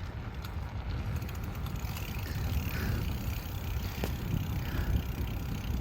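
Wind rumbling on the microphone and road noise from a bicycle being ridden, with a single sharp click about four seconds in.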